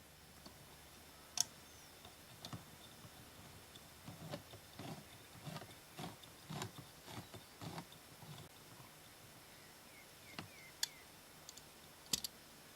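Faint, irregular clicks and knocks, about a dozen, bunched together between four and eight seconds in, with a few sharper single clicks before and after. No engine is running.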